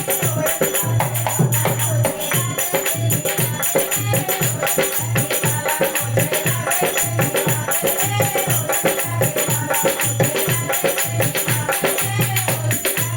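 Dholak playing a steady fast bhajan rhythm, its deep bass strokes recurring about twice a second, under jingling hand percussion and a melody line.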